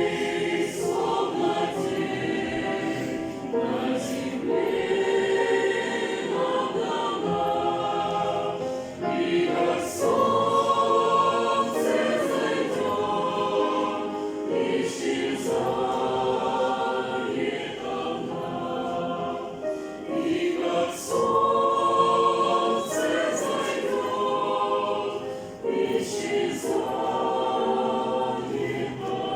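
A choir singing a Christian song in Russian: several voices in harmony, phrase after phrase.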